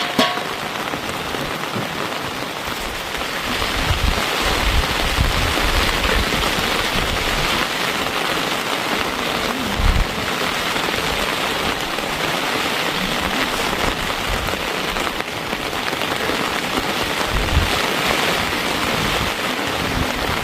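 Steady heavy rain falling and pattering on surfaces, with a short clink right at the start and a few dull low thumps about four, ten and seventeen seconds in.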